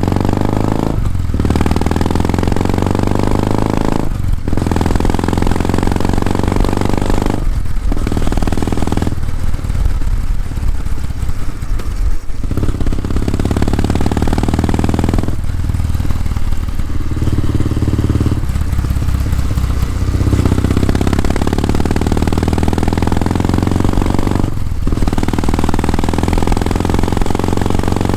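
Kawasaki W650's 676 cc parallel-twin exhaust on the move, the engine note climbing as it accelerates and dropping out briefly at each of several gear changes.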